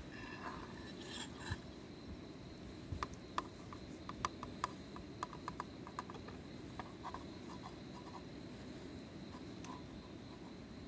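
Insects calling in the forest: short high chirps recurring about every two seconds over a steady thin high hum, with a run of small clicks and clinks of things being handled in the middle.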